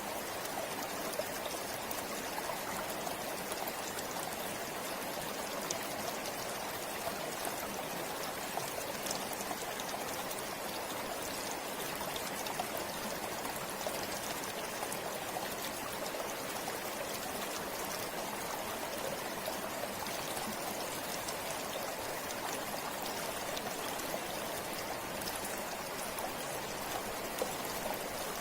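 Forest river flowing steadily over stones, an even rush of water with small splashes and trickles through it.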